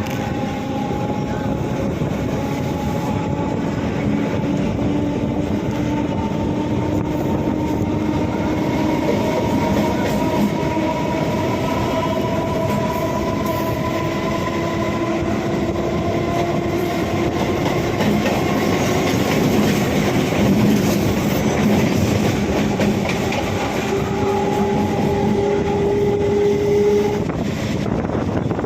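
Electric multiple unit (EMU) local train running on the line: a steady rumble of wheels on rails with the whine of the traction motors, several tones climbing slowly in pitch as the train gathers speed.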